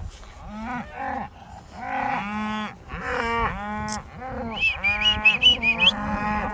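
A herd of cows mooing, many long calls overlapping one another. About two-thirds of the way through comes a quick run of short, higher-pitched calls.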